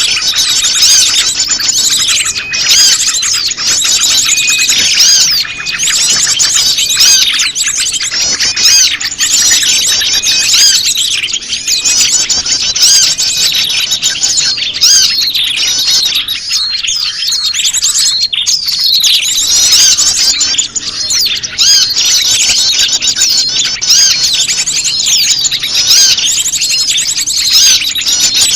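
A dense, unbroken chorus of many small birds chirping and trilling over one another. It is a bird-lure recording of prenjak lumut calls mixed with a noisy flock, played to draw wild prenjak lumut in.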